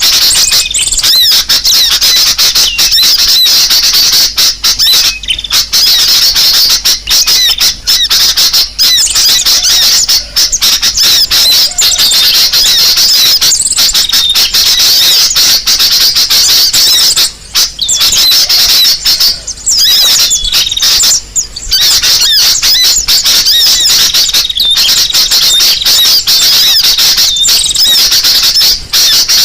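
Bird-lure recording of sunbird calls mixed with sooty-headed bulbul calls: a loud, dense, nearly unbroken stream of high chirps and trills, played to draw small birds in.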